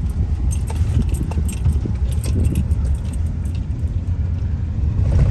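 Car being driven, heard from inside the cabin: a steady low rumble of engine and road, with frequent short clicks and rattles.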